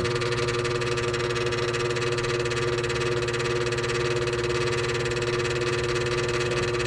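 Furnace draft inducer motor running with a loud, steady squeal of two tones over a low hum. The inducer motor is failing: it is why the heater won't light and it needs replacing.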